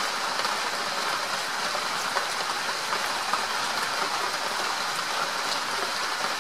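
Steady rain falling, an even hiss with a few single drops ticking louder.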